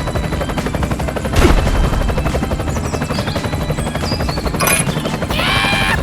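Rapid, steady mechanical chattering of a small machine, with a thump about a second and a half in and a brief squeaky, voice-like call near the end.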